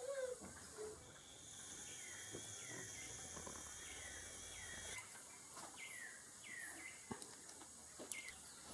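Faint outdoor ambience: a bird's short, high, downward-sliding chirps repeated several times, over a steady high insect buzz that stops about five seconds in.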